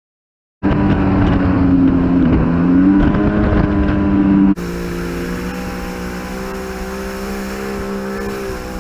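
Yamaha WaveRunner jet ski engine running steadily, starting abruptly about half a second in. About four and a half seconds in it drops suddenly to a quieter, steady run.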